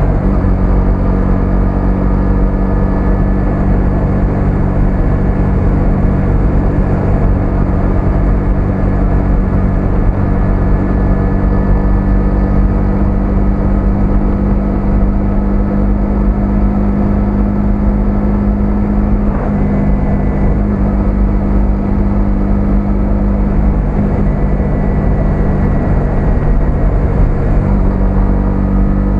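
Small single-cylinder four-stroke 125cc motorcycle engine running at a steady, nearly constant pitch while cruising, with a low rumble underneath.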